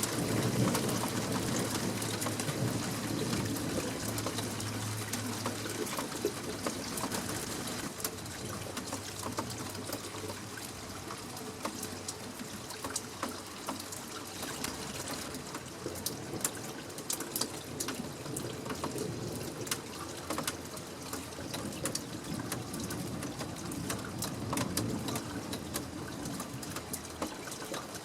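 Thunderstorm rain falling steadily, with water splashing and trickling. Sharp close drips and splashes become frequent from about halfway through.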